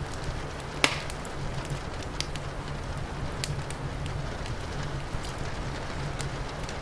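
Wood fire crackling, with scattered sharp pops and one loud pop about a second in, over a steady hiss of rain.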